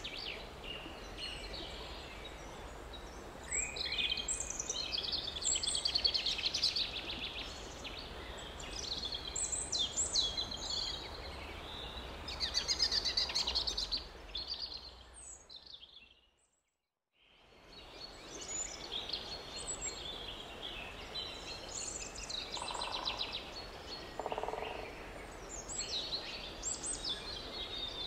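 Several songbirds singing and chirping over a faint steady background noise. A little past halfway the sound fades out to silence for about a second, then comes back.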